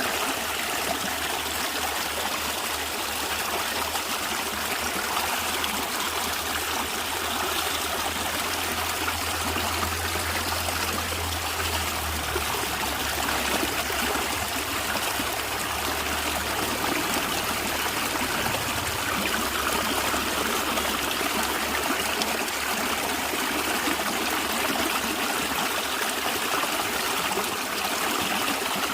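A natural stream of water flowing and gurgling steadily, with a low rumble underneath that swells about a third of the way in.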